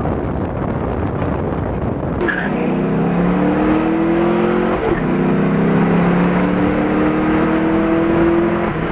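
Car engine under hard acceleration, heard from inside the cabin. Its note climbs steadily through a gear, drops at a shift about five seconds in, then climbs again until another shift near the end.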